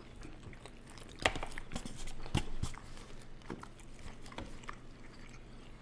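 Close-miked chewing and wet mouth smacks while eating sauced chicken wings, with scattered sharp clicks, the loudest about one and two and a half seconds in.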